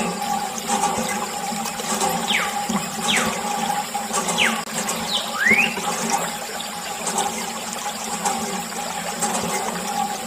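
Water running and splashing steadily over a steady hum, with several short falling whistles scattered through it.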